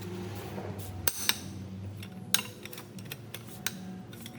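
A few sharp metal clinks and knocks from steel parts and tools being handled, over a steady low hum.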